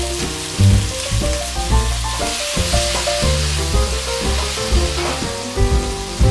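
Tomato wedges sizzling in oil in a nonstick wok as they are stir-fried with a silicone spatula, a steady hiss that swells a little midway, under background music with a bass line.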